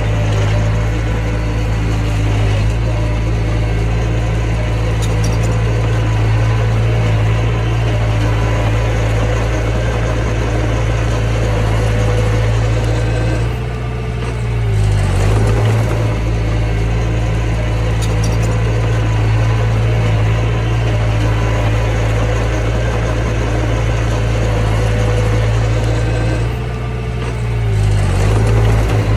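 Mini bulldozer's diesel engine running steadily under work, its note dipping briefly twice as the load or throttle changes, about halfway through and again near the end.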